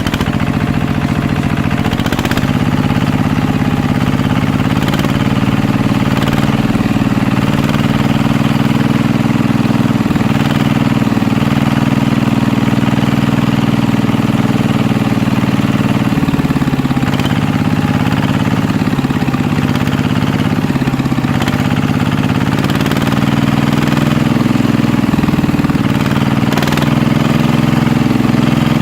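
A small engine running steadily at idle, with a few faint clicks along the way.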